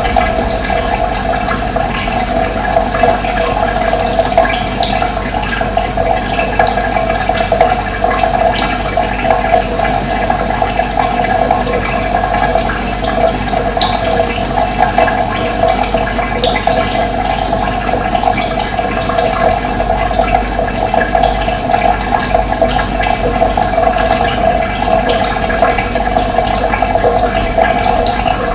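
Running water, a steady continuous rushing flow.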